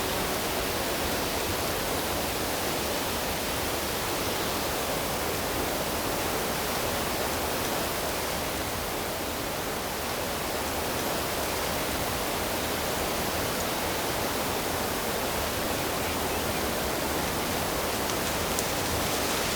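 Steady rush of flowing water, a stream or waterfall running without a break.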